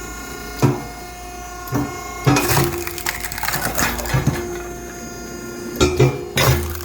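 SSLJ100-600H hydraulic firewood splitter running with a steady hum while oak logs are split: sharp cracks and knocks come every second or so, with a longer crackling stretch about two seconds in as the wood splits apart.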